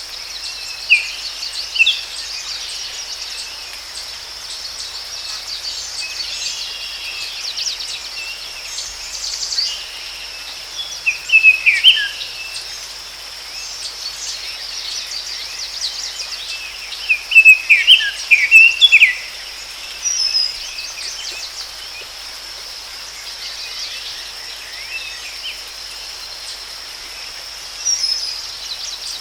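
Forest ambience: a steady, high insect drone with birds chirping in short clusters, loudest about twelve seconds in and again a few seconds later.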